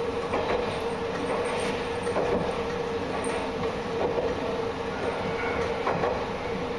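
Diesel railcar running along the line, heard from inside the cab: a steady running drone, with the wheels clicking over rail joints every second or two.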